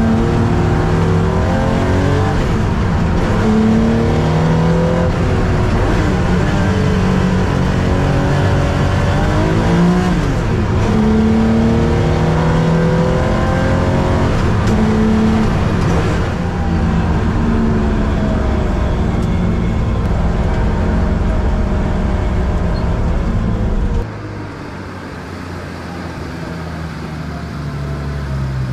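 Classic Porsche 911 race car's air-cooled flat-six heard from inside the cabin at speed on track, its revs climbing again and again with sudden drops at each gear change. Near the end the engine sound falls to a lower, quieter, steadier note.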